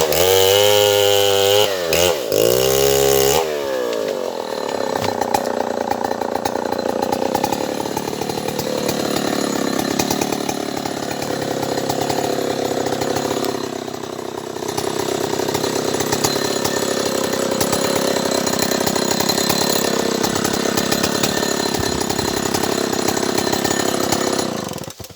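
Stihl 070 two-stroke chainsaw revved up and down twice, then running steadily under load as it cuts through a sengon log for about twenty seconds, stopping near the end.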